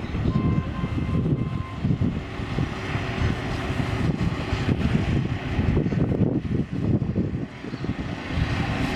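Heavy vehicle engines running with a steady, fluctuating low rumble.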